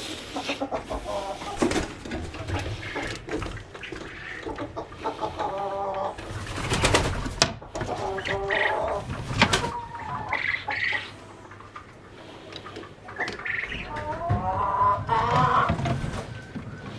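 Chickens clucking in short, repeated low calls, with a few sharp knocks among them.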